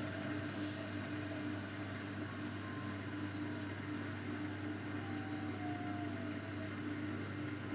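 Miele Novotronic W822 washing machine running steadily through its final spin programme, with a constant low motor hum and a fainter tone that glides slightly.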